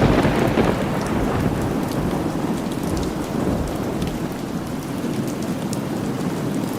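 Steady rain with a clap of thunder right at the start that rumbles away over a second or so.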